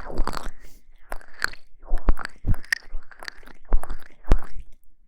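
Close-miked ASMR crackling: a quick, irregular run of crisp clicks and crunchy crackles, with short scratchy smears between them.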